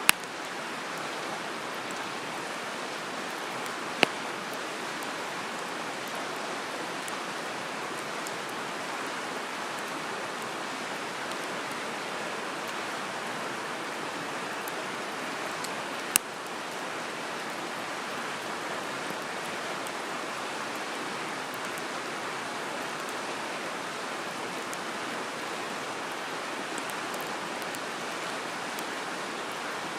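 Open wood campfire burning, with sharp crackling pops from the firewood about four seconds in and again about sixteen seconds in, over a steady rushing noise.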